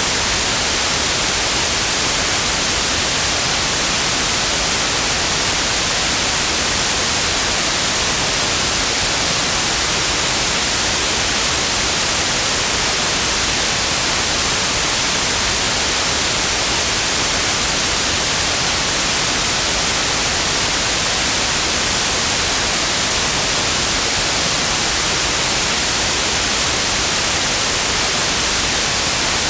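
Synthetic white noise: a steady, even hiss across the whole range, brighter toward the top, with no change or events.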